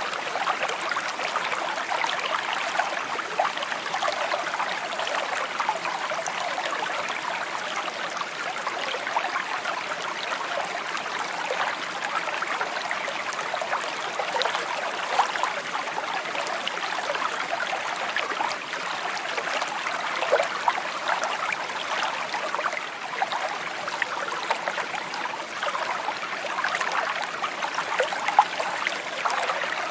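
A small stream babbling and trickling steadily over stones, a constant bright splashing with many small gurgles and drips.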